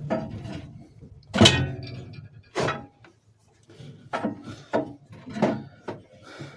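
A series of irregular knocks and clunks of metal parts and tools being handled, the loudest about a second and a half in with a short metallic ring.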